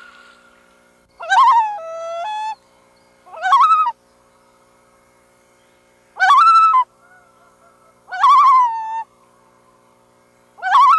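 Loons calling: five rising, wavering calls a couple of seconds apart, some stepping between held pitches, over a faint steady hum.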